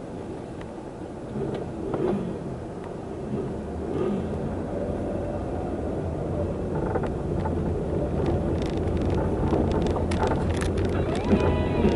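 Car driving, with steady engine and road rumble that grows gradually louder, and several sharp clicks near the end.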